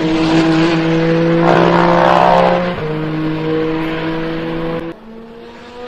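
Peugeot 9X8 EVO hypercar's twin-turbo V6 running at steady revs. The pitch steps slightly about two-thirds of the way in, then drops and goes quieter near the end. A second, falling engine note passes through briefly partway in.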